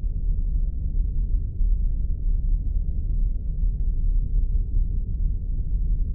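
Spaceship sound effect: a steady deep rumbling drone, with its energy low down and no clear rhythm or change.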